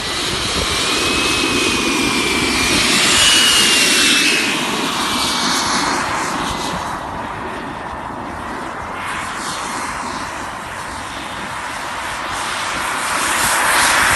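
Freewing F-22 radio-controlled model jet flying past, a steady rushing whine with a thin whistle that rises and then slowly falls as it passes. It is loudest about three seconds in and again near the end, as it passes by twice.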